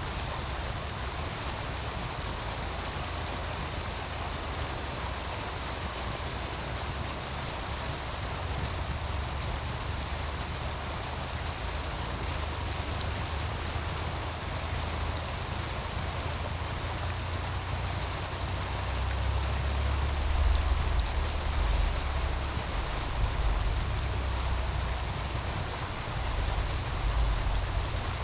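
Wood fire crackling with scattered sharp pops over the steady rush of a meltwater stream. A low wind rumble on the microphone grows stronger and gusts near the end.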